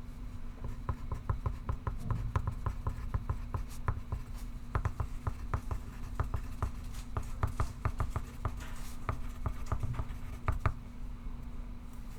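Pencil writing on paper: many quick, short scratching strokes in bursts, over a steady low hum.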